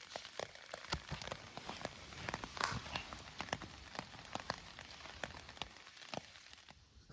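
Rain falling, with many separate drops landing in quick, irregular clicks over a steady hiss; it fades away near the end.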